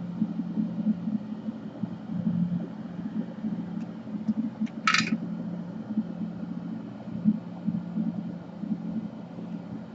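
Steady low mechanical hum, with a few faint clicks and then a short sharp hiss about five seconds in.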